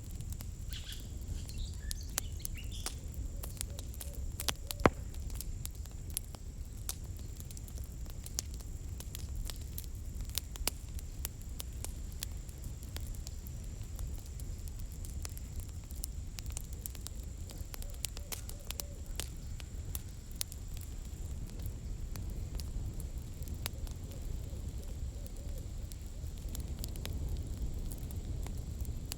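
Campfire burning with a steady scatter of sharp crackles and snaps, one louder pop about five seconds in, over a low steady rumble.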